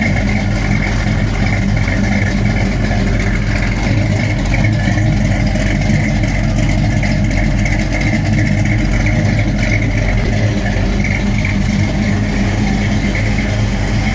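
A 468-cubic-inch Pontiac V8 with a big cam and a Holley 850 double-pumper carburetor idling steadily, running for the first time after its rebuild.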